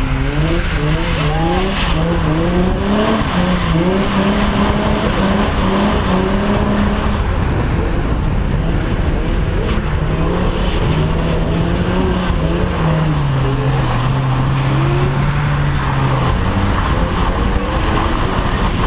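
Car engine revving up and down as the car is driven sideways round a skid pan, its pitch climbing and falling in long sweeps over a steady rush of noise.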